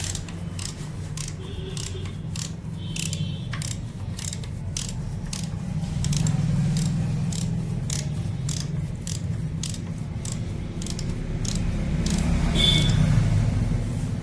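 Repeated sharp metal clicks, about two a second, from hand tools working on a bike-washing pump motor, over a steady low hum.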